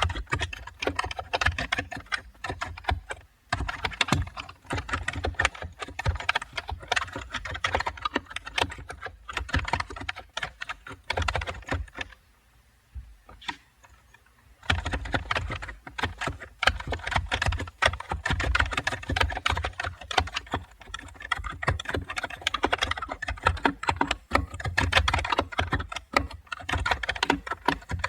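Continuous rapid typing on a computer keyboard, a dense patter of key clicks with a low thud under each keystroke. The typing pauses for about two seconds just before the middle, then carries on.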